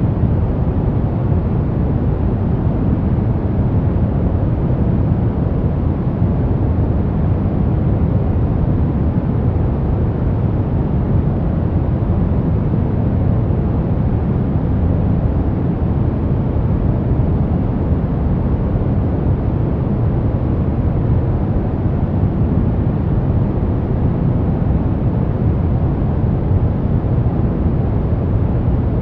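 Continuous baby-sleep white noise: an even, deep hiss with most of its weight low down and little treble, unchanging throughout.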